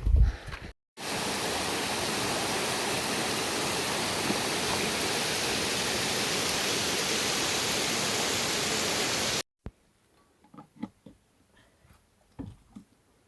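Steady, even rushing noise that cuts in abruptly about a second in and stops abruptly about eight seconds later, followed by faint scattered clicks.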